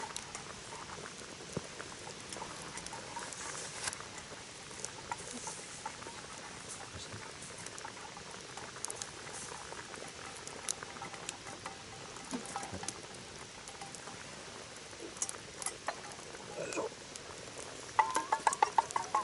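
Wood bonfire crackling: a steady hiss with scattered sharp pops and snaps. About a second before the end, a louder fast rhythmic rattling starts.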